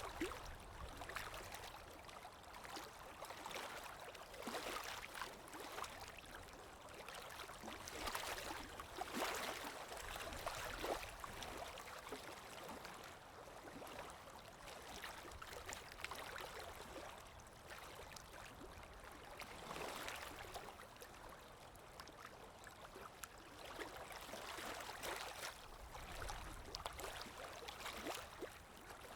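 Calm sea waves washing in, a faint hissing wash with fine crackle that swells and fades in slow surges several seconds apart.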